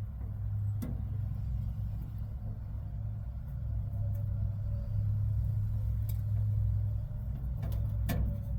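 A steady low rumble with a couple of light clicks or knocks, one about a second in and a cluster near the end.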